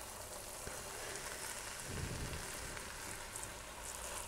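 Gajar ka halwa (grated carrots with dry milk) sizzling faintly in a pan while a spatula stirs it.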